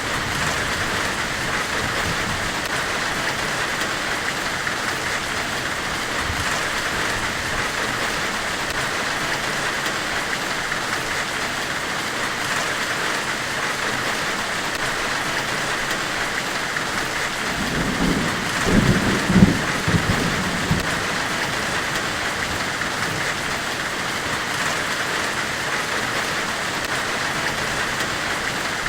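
Steady, even hiss of a forge-weld white-noise ambience, strongest in the upper-middle range. About 18 seconds in a low rumble swells up for a few seconds and fades back into the hiss.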